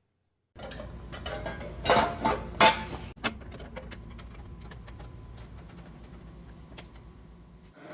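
Mechanical clicking with several sharp knocks about two to three seconds in, over a faint steady hum that slowly fades.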